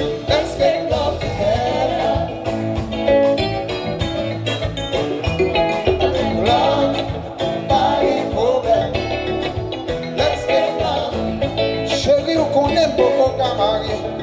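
Live band music with a steady drum beat under a moving melodic lead line.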